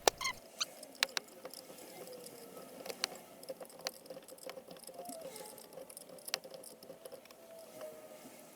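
Faint, scattered short clicks and light taps of hand tools on metal, a second or more apart, during the helicoil repair of a stripped exhaust-manifold bolt hole.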